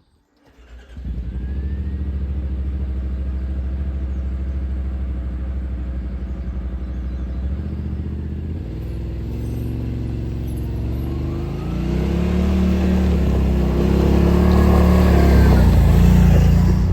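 Side-by-side UTV engine comes in about a second in and runs steadily, then its revs rise and fall and it grows louder in the second half as the machine drives along the trail.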